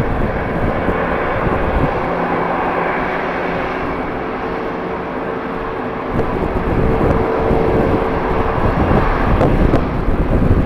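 Jet airliner engines running with a steady whine, mixed with the rumble of strong wind buffeting the microphone.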